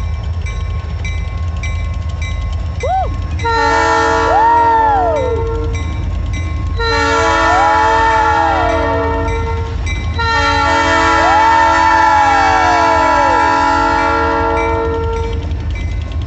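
Three long blasts of a diesel locomotive's multi-chime air horn, the last the longest, sounded over the steady low rumble of the locomotive's engine.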